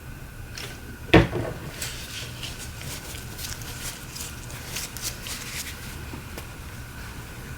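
Small parts and tools being handled on a workbench during a phone screen repair: one sharp knock about a second in, then a run of light clicks and taps, over a steady low hum.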